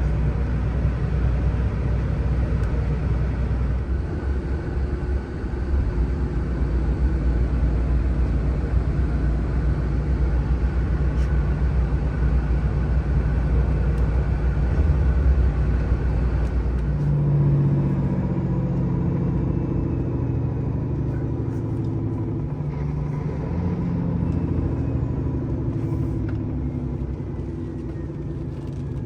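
Scania truck driving: a steady low engine drone with road rumble. A little over halfway through, the engine note moves higher and shifts in steps.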